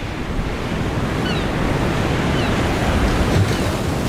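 Sea surf and waves breaking along a rocky coast in wind, a steady rushing noise. A few faint, short, high chirps sound over it about once a second.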